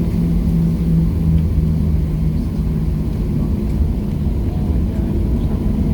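Cabin noise of a Boeing 737-700 on the ground before takeoff: a steady low rumble of its CFM56 engines at idle. A low hum runs under it and fades out a little over halfway through.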